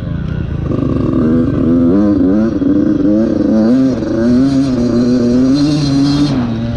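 Dirt bike engine revving up and down with the throttle while riding, the pitch wavering constantly. Near the end it settles to a steadier, lower note.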